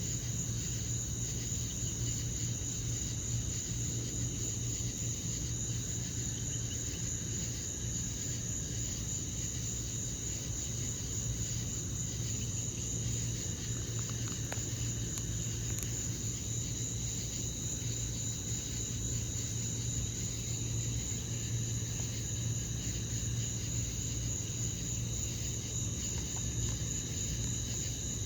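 Crickets chirping in a steady, high-pitched evening chorus, with a low steady hum underneath. A few faint clicks come about halfway through.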